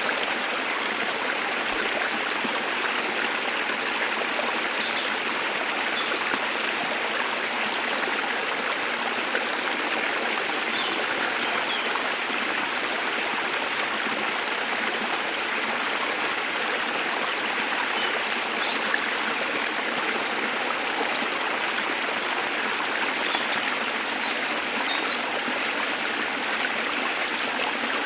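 Waterfall water rushing in a steady, unbroken wash, with faint high bird chirps now and then.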